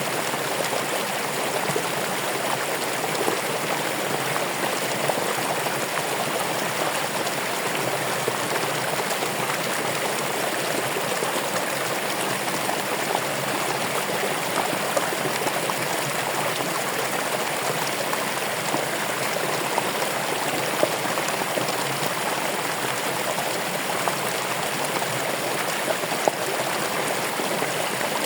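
Running water: a steady flowing rush with small splashes and drips scattered through it.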